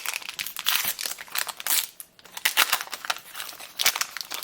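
Foil wrapper of a trading card booster pack being torn open and crinkled: irregular crackling and crinkling, with a short lull about halfway and sharper loud crackles after it.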